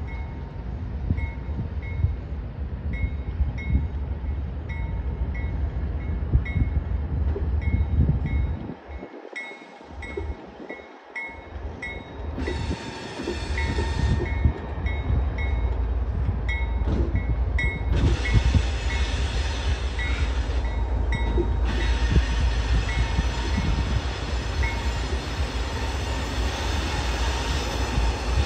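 CSX diesel freight locomotives pulling a train slowly out of the yard, their engines rumbling steadily. A railroad crossing bell dings about twice a second and stops a few seconds before the end. The locomotive horn sounds a short blast about halfway through and a longer one in the last third.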